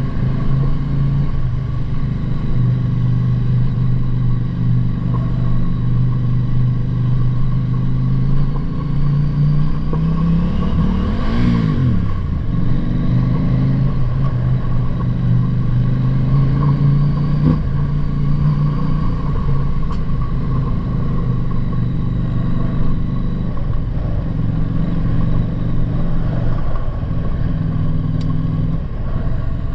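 Motorcycle engine running steadily while riding, its pitch shifting now and then, with a brief rise and fall in pitch about eleven seconds in.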